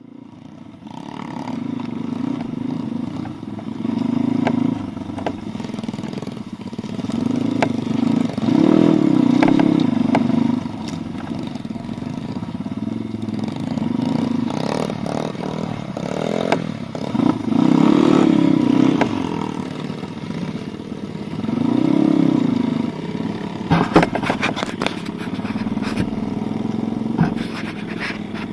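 Pit bike's small single-cylinder engine revving up and falling back again and again while riding, with a burst of clattering knocks near the end.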